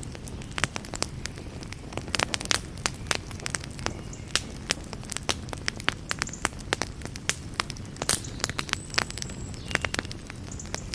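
Campfire burning: irregular sharp crackles and pops over a steady low rush of flame.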